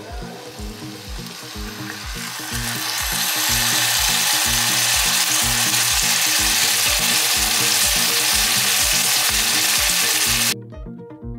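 Air-dried-ham-wrapped chicken rolls sizzling in hot oil in a frying pan, the sizzle swelling about two seconds in and cutting off suddenly near the end. Background music with a steady beat plays underneath.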